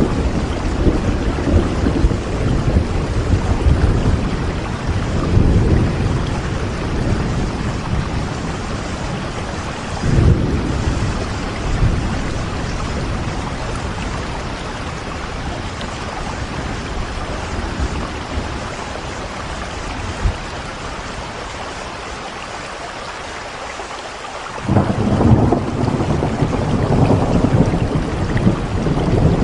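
Steady rain falling, with a deep low rumble beneath it that swells and fades. The rumble dies down for a few seconds and comes back suddenly near the end.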